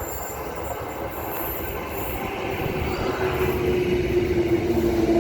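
Transperth A-series electric multiple unit train pulling into the platform, its running noise growing steadily louder. A whine strengthens near the end and drops slightly in pitch as the train slows.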